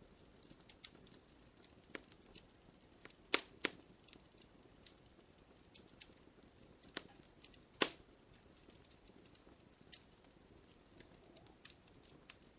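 Wood fire crackling in a fireplace: irregular sharp pops and snaps over a faint hiss, the loudest pops a little over three seconds in and near eight seconds.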